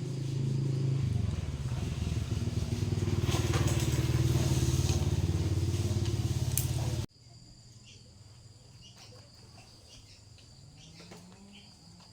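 Small Kubota diesel engine running steadily. About a second in its note drops deeper and grows louder. Around seven seconds in the sound cuts off suddenly, leaving faint insect chirring and a few small clicks.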